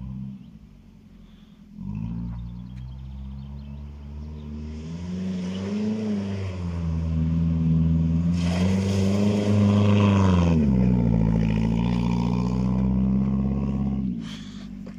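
ZAZ-968M Zaporozhets car engine revving as the car is driven hard around a dirt track, its pitch rising and falling. It builds to its loudest in the middle, with a rush of tyre and gravel noise, then eases off near the end.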